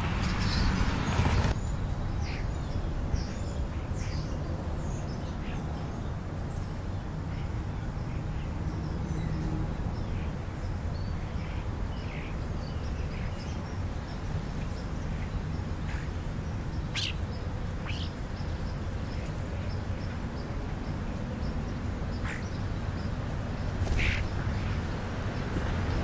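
Scattered short bird chirps and calls over a steady low outdoor rumble, with a brief burst of handling noise in the first second or so as the camera is set down on the ground.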